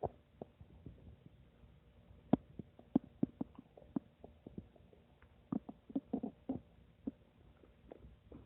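A human stomach gurgling: irregular short pops and bubbly gurgles, with a denser run of gurgles about two-thirds of the way through.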